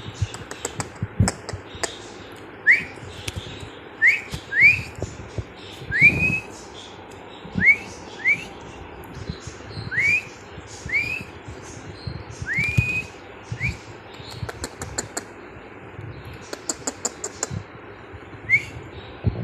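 Budgerigars calling: short whistled chirps that each rise quickly in pitch, about a dozen of them a second or two apart, with faint scratchy chatter and small clicks between them.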